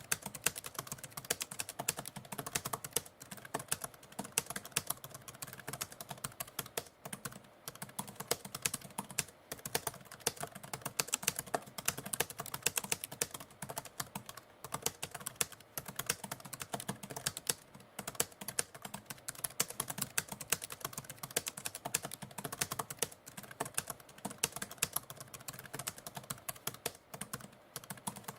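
Typewriter keys being typed continuously, a rapid, uneven stream of sharp clacks.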